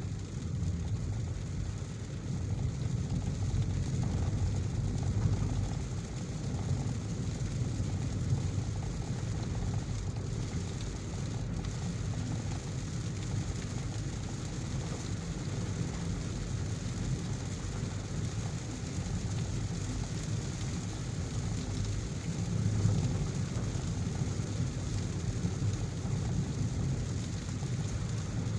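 A car driving in heavy rain: a steady low rumble of engine and tyres, with an even hiss of rain and wet road over it.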